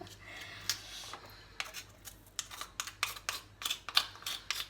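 Knife blade scraping mussel shells in quick repeated strokes, about three a second, starting about a second and a half in: the sea growth stuck to the shells is being scraped off.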